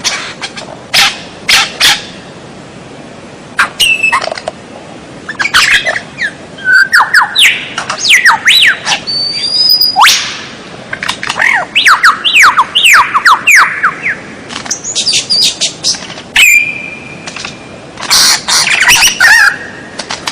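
Songbird masteran (tutor) recording: a loud, varied song of quick rising and falling whistles, chirps and harsh notes. It is sparse at first, then comes in dense phrases from about six seconds in, with a couple of briefly held whistles.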